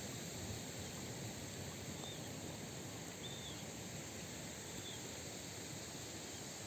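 Faint steady outdoor background hiss, with three short high chirps spread through it.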